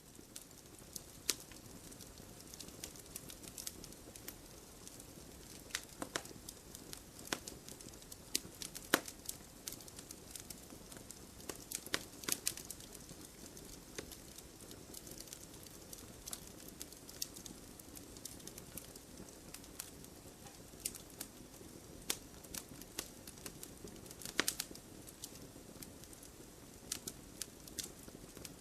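Wood fire in a fireplace, logs burning with irregular sharp crackles and pops over a steady soft rush.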